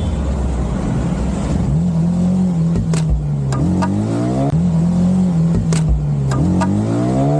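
Motorcycle engine running on the road, its revs holding steady, then dropping and rising again several times as the rider changes speed.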